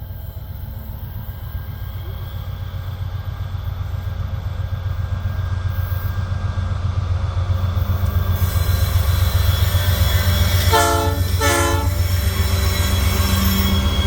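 Freight train's diesel locomotive approaching, its low engine rumble growing steadily louder. About eleven seconds in, its horn sounds two short blasts in quick succession.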